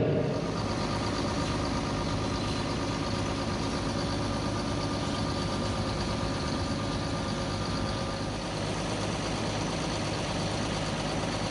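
Diesel engine of heavy farm harvest machinery running steadily with a constant drone.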